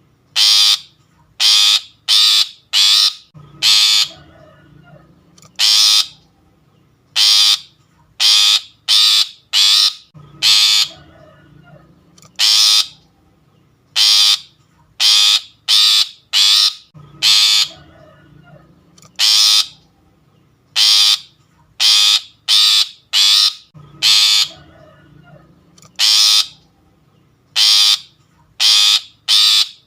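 Lure recording of long-tailed shrike (pentet) calls: loud, harsh, raspy notes in bursts of four or five, each burst repeating every six to seven seconds.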